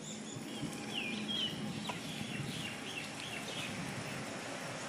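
Birds calling in a quick run of short, high chirps for about three seconds, over the steady low rumble of a bicycle rolling along a rough paved road.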